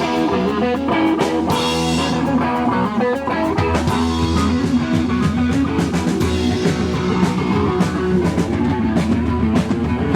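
Punk band playing live: loud electric guitar, bass and a drum kit hitting a steady beat.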